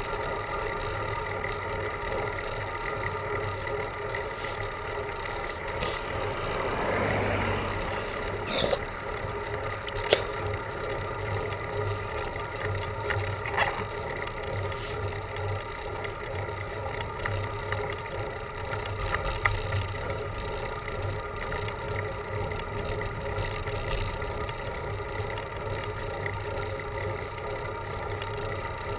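Steady riding noise from a bicycle on the road, a constant hum with a whine running through it. A broad swell of noise builds and fades about seven seconds in, and a few sharp clicks come through near nine, ten and fourteen seconds.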